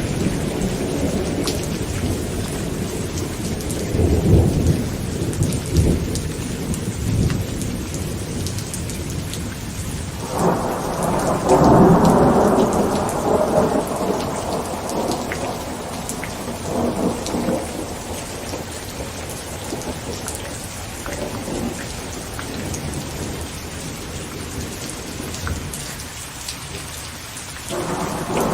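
Heavy rain falling steadily on a tent, with rolling thunder: a low rumble about four seconds in, a louder peal starting about ten seconds in that fades away over several seconds, and another peal beginning near the end.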